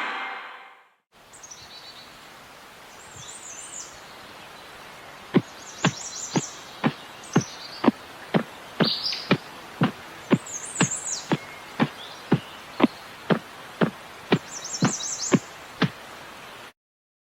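Birds chirping over a steady outdoor background. From about five seconds in, a regular series of sharp taps joins them, about two a second, and everything cuts off abruptly shortly before the end.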